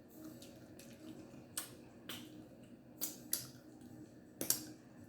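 Snow crab shell being cracked and snapped apart by hand: about five sharp cracks spread over a few seconds.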